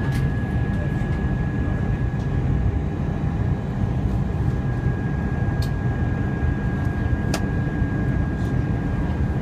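Airbus A320 in flight: steady low rumble of engines and airflow with a thin, steady high whine over it. Two short clicks come past the middle.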